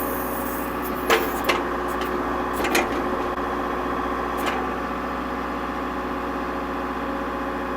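Kubota L47 tractor-loader-backhoe's diesel engine running steadily while the backhoe is worked, with a few short knocks from the machine about one, one and a half, and nearly three seconds in.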